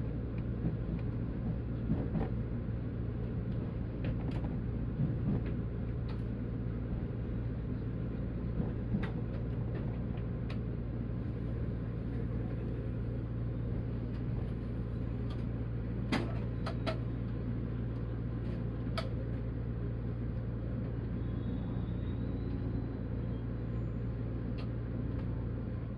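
Steady low rumble and hum of a JR 185 series electric train, with a few faint clicks scattered through it.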